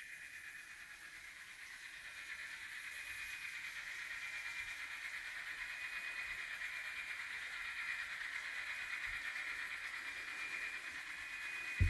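Model train running round the layout: a steady high-pitched motor whine with wheel noise on the rails, slowly growing louder as it comes nearer. A brief low thump at the very end.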